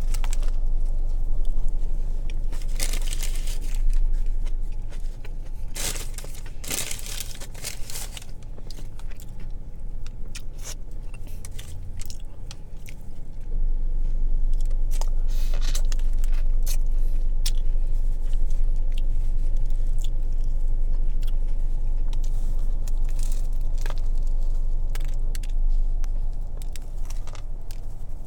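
Close-miked eating of a toasted sub sandwich: bites, crunching and chewing mouth sounds, coming as many scattered sharp clicks with a few bigger crunches about three and six to seven seconds in. A steady low hum runs underneath.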